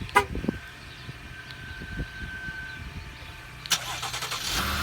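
Cold start of a 2017 GMC Acadia's 3.6-litre LGX V6 at 16 °F: a brief sharp sound near the start, then about 3.7 s in the starter cranks briefly and the engine catches and settles into a steady idle. The idle is nice and quiet, with no timing-chain rattle on start-up.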